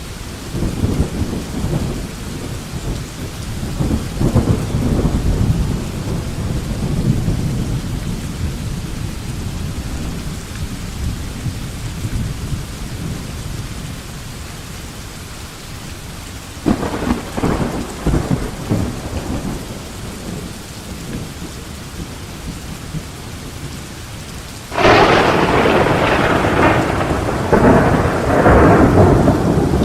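Thunderstorm: steady rain with rolling thunder. A long low rumble fills the first several seconds, a sharper crack comes a little past halfway, and a loud close thunderclap breaks near the end and rolls on.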